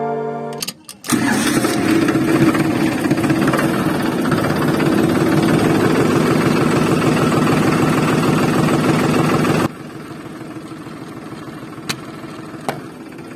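Tractor engine starting after a few clicks, then running steadily with a rapid firing rhythm, and dropping suddenly to a quieter idle about ten seconds in.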